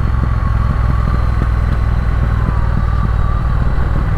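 Triumph Speed Twin's parallel-twin engine running steadily under way, with wind rush over it, as the motorcycle descends a mountain road on engine braking.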